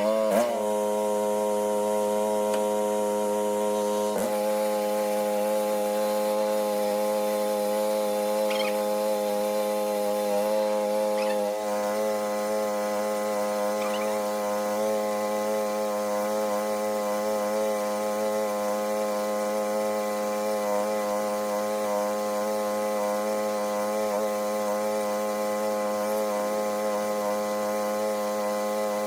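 A small petrol engine running steadily at high speed, with only slight shifts in pitch about 4 and 11 seconds in.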